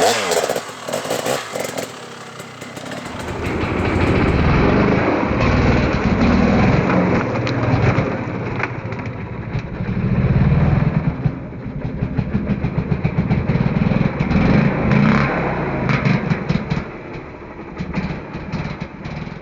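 2017 KTM 300 XC-W two-stroke single-cylinder dirt bike engine revving up and down as the bike is ridden over a log, with sharp knocks and clatter mixed in. The engine runs harder and louder from about three seconds in.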